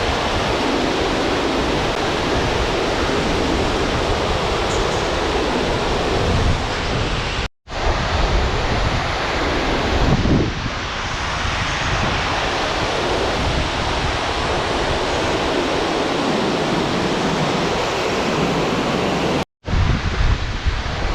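Steady rushing of falling water from the Vettisfossen waterfall, with wind rumbling on the microphone. The sound drops out for an instant twice, about a third of the way in and near the end.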